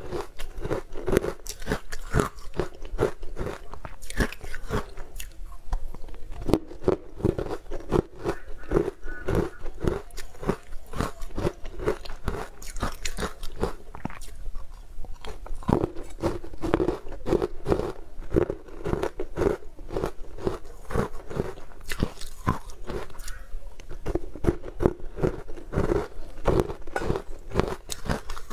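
Close-miked crunchy chewing: a person biting and grinding dry, green powder-coated cubes, at about two chews a second, with a brief lull about halfway through.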